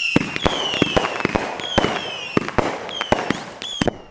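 Fireworks going off in quick succession: a dozen or so sharp bangs with several whistles that fall in pitch, over a crackling hiss. The volley thins out near the end.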